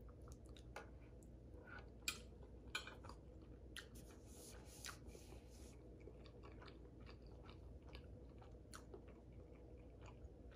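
Faint close-up chewing of a mouthful of lasagna, with scattered soft clicks and smacks.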